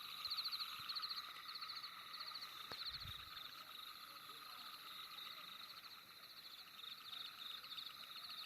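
Night chorus of frogs calling in rapid, overlapping trills, some high and some lower, going on steadily.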